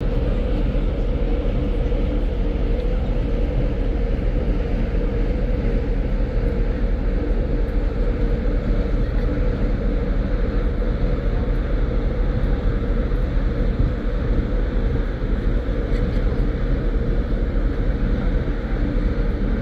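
Steady drone of a ship's engines under way, with a constant low rumble and a hum.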